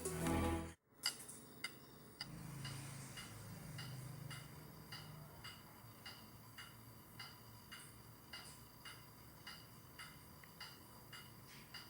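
Clock ticking steadily, a little under two ticks a second, each tick with a slight metallic ring, after a burst of music cuts off about a second in.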